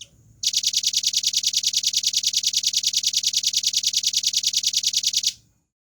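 Velvet-fronted nuthatch giving a long, fast, even trill of high, clear notes, about ten a second. It starts about half a second in and stops abruptly near the end, after a faint single note at the very start.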